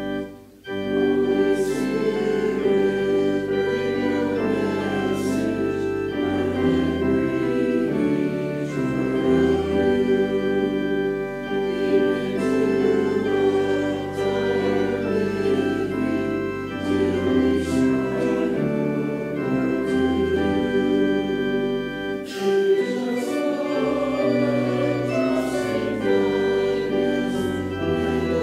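Church organ accompanying a congregation singing a hymn in sustained, slow-moving chords, with a short break about half a second in.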